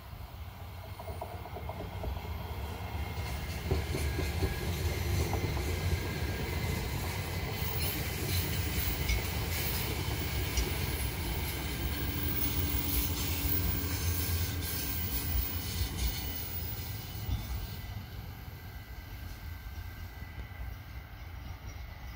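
Electric regional multiple-unit train passing close by: its running noise builds over the first few seconds, holds with wheels clattering over the rails, then fades in the last few seconds.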